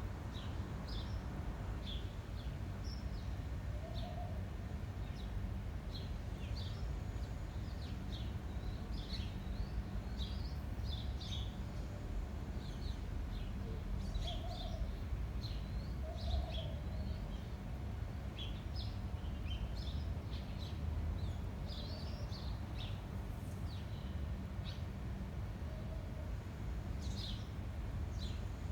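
Small birds chirping and twittering in short, scattered calls over a steady low rumble of wind on the microphone, with a few soft low notes now and then.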